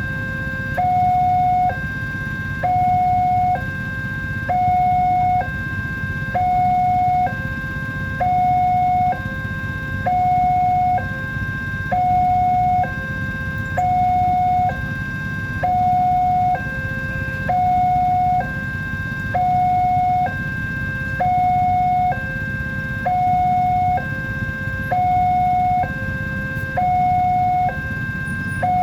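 Railway level-crossing warning alarm sounding a steady two-tone hi-lo signal, each tone held about a second, which warns that a train is approaching. A steady low rumble runs underneath.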